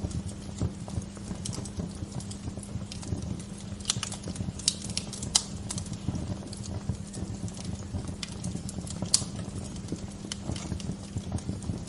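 Wood fire crackling: irregular sharp pops and snaps, a few louder ones in the middle and about nine seconds in, over a steady low rumble.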